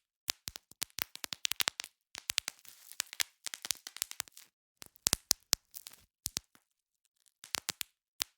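Bubble wrap being popped: quick, irregular runs of sharp pops, with the plastic crinkling between them and a couple of short pauses.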